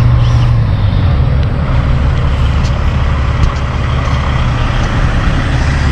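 Diesel semi-truck engine running close by, a steady low drone whose pitch drops slightly a little under a second in as the revs fall.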